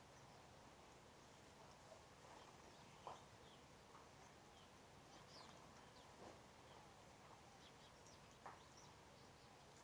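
Faint scattered bird chirps over a steady background hiss, with two slightly louder short sounds about three seconds in and near the end.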